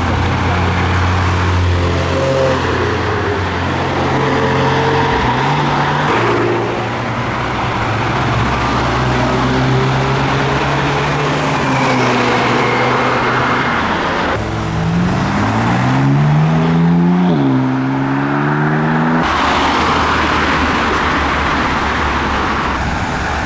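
Cars driving past with their engines running, one after another. About two-thirds of the way through, one car accelerates hard: its revs climb, dip briefly at a gear change, then climb again before it moves off.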